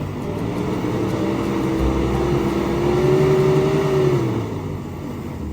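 Campervan engine revving under load as it tries to drive out of soft sand, the pitch climbing for about three seconds and then falling away about four seconds in.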